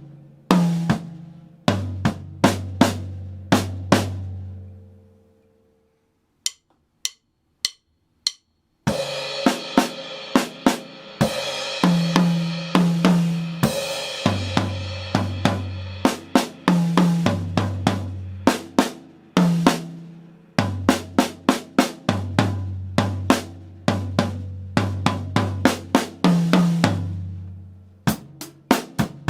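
Drum kit playing an exercise of snare, tom and bass drum strokes that stops and rings out. Four evenly spaced clicks count in a faster tempo, and the full kit starts again with crash cymbal, toms, snare and bass drum.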